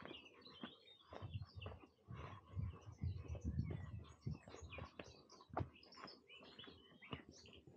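Several songbirds chirping and singing in short, overlapping phrases, with irregular low thumps underneath.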